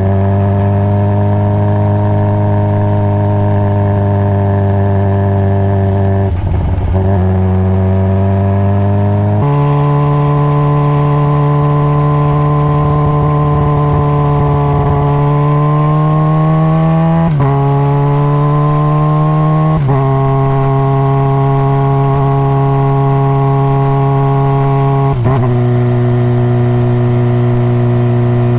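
Honda CBR600RR inline-four on stock exhaust, running steadily under way. Its pitch holds for a few seconds at a time and steps up or down about five times at gear changes, with slow rises and falls in between.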